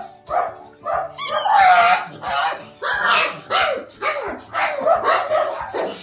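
Dog barking repeatedly, about two barks a second, with one longer, louder bark or yelp about a second in.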